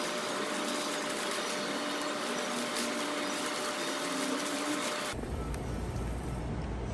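Steady machine-like hum and hiss with a faint high whine. It breaks off about five seconds in, giving way to a quieter, low background rumble.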